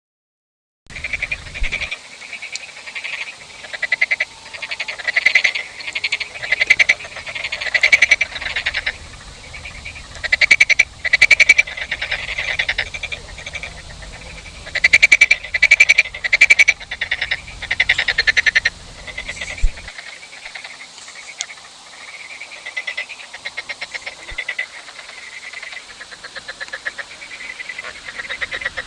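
A chorus of frogs calling: many rapid, pulsed, high-pitched croaks overlapping and swelling in waves, starting about a second in.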